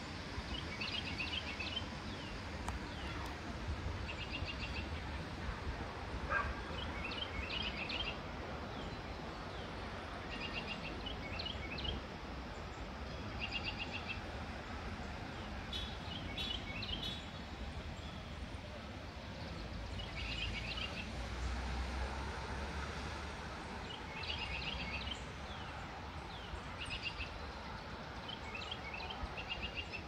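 A songbird singing a short phrase of quick high notes over and over, every two to three seconds, over a steady low outdoor rumble.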